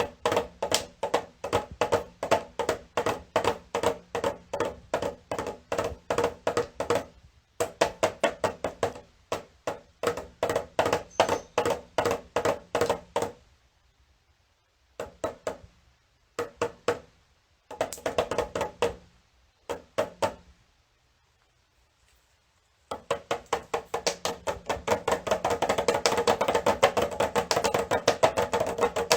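A small, tuned drum struck in quick runs of taps, each run lasting a few seconds with short pauses between. Near the end the strikes come faster and crowd together.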